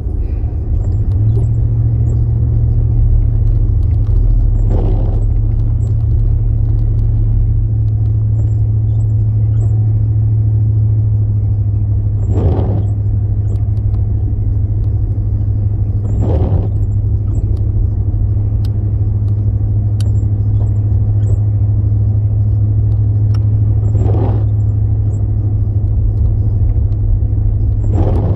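Car interior road and engine noise: a steady low drone, with five brief swishes spread unevenly through it.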